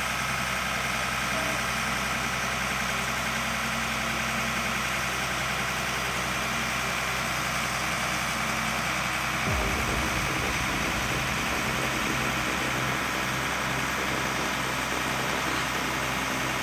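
A heavy vehicle's engine running steadily at idle, with a deeper low rumble joining about halfway through.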